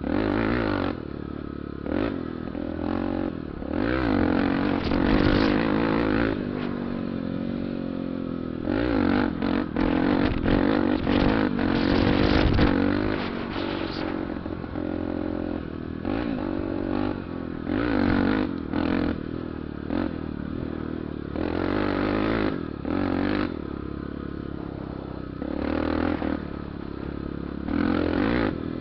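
Honda Tornado 250 single-cylinder four-stroke motorcycle engine running while being ridden, its pitch rising and falling with the throttle and climbing through a louder stretch about a third of the way in. Repeated bursts of rushing, rattling noise break over the engine sound.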